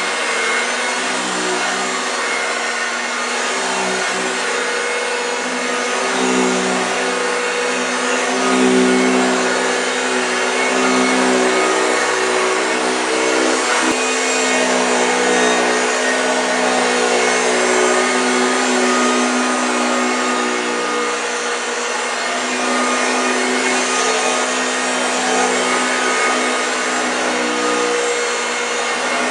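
1965 Hoover Junior 1334A upright vacuum cleaner running steadily on carpet, a humming motor with the growl a Junior makes on carpet. It sounds a bit dry.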